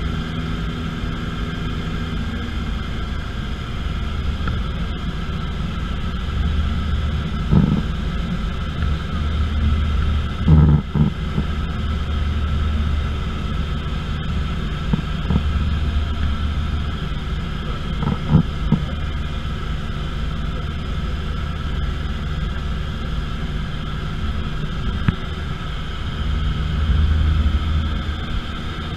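Steady drone of an airplane's engine heard from on board, with a low rumble under several held tones, broken by a few short thumps.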